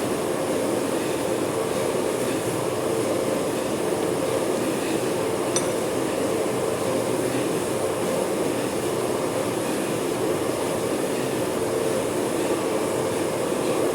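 Manual metal lathe running steadily, with a faint metallic clink about five and a half seconds in.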